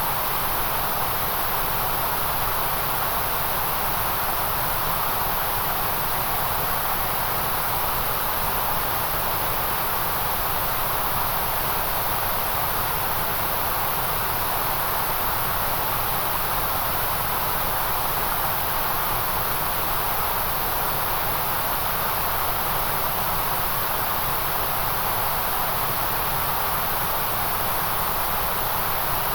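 Steady white noise for concentration: an even, unchanging hiss with a strong high edge and a band of energy in the middle range.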